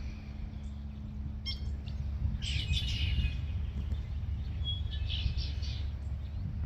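Red-winged blackbirds singing: a short call, then two song phrases about two and a half seconds apart, over a steady low rumble.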